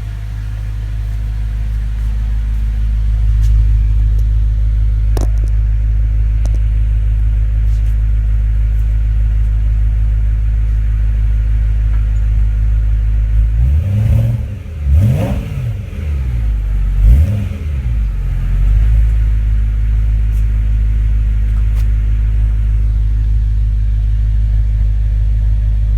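BMW E90 M3's 4.0-litre V8 idling through an M Performance exhaust, its rumble echoing in a closed garage. About halfway through there are a few quick throttle blips, the pitch shooting up and falling back, before it settles back to a steady idle.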